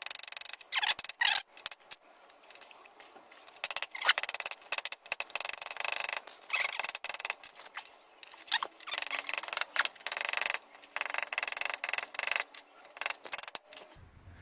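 Hand tool scraping and rasping on the metal and rubber of a car engine mount, in uneven strokes about once a second.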